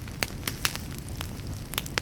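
Wood fire crackling: sharp irregular pops and snaps over a low, steady rumble of burning.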